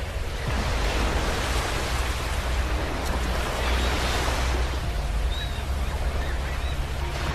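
Sea waves surging and washing on a beach: a steady rush of surf that swells about a second in and again around four seconds in.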